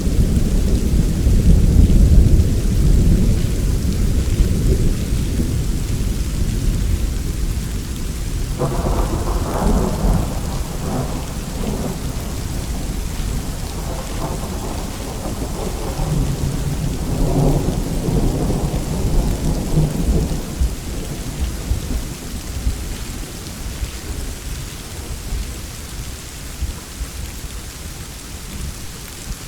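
Steady heavy rain with thunder. A low rumble at the start fades away. About nine seconds in, a sharper, crackling peal breaks and rolls on in waves for some ten seconds before dying back to the rain.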